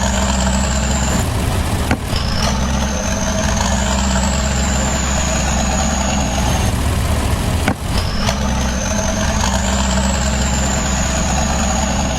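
Engine idling: a steady low rumble with a thin high whine that rises and then falls, the same pattern coming round about every six seconds.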